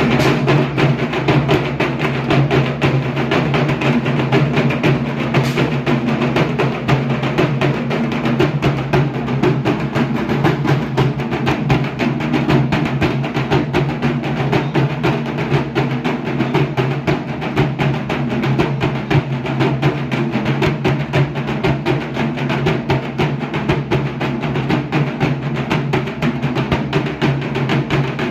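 Dhak, the large Bengali barrel drum, beaten with sticks in a fast, dense, unbroken rhythm.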